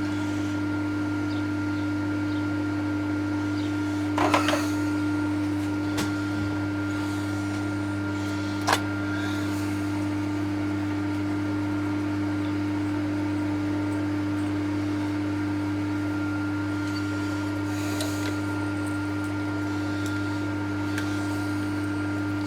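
TOS milling machine's electric motor humming steadily, with a few sharp metallic clicks about four, six and nine seconds in, and again near eighteen seconds.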